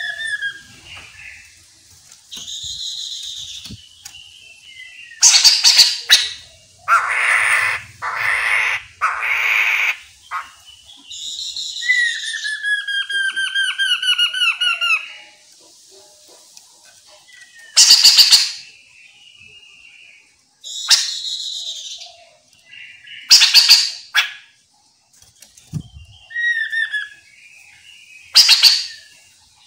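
Chestnut-capped laughingthrush calling and singing. Short, harsh, loud calls recur every few seconds, between clear whistled phrases, with a run of quick falling whistled notes about twelve seconds in.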